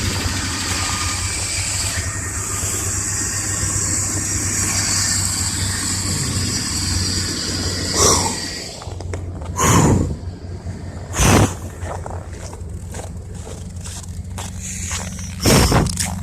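2005 Ford F-150's Triton engine idling steadily just after a cold start in about −18 °C. Several short scraping sounds come from about halfway through.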